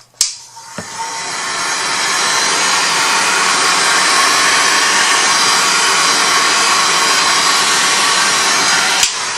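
Handheld craft heat tool blowing hot air in a steady rush to dry sprayed colour, spinning up about a second in and switched off with a click near the end.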